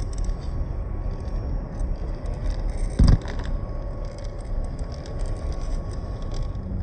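Small electric drivetrain of a WPL C24 1/16 scale RC crawler whining steadily while its tyres and chassis crackle and scrape over rocks, with a loud thump about three seconds in, under a low rumble of wind on the microphone.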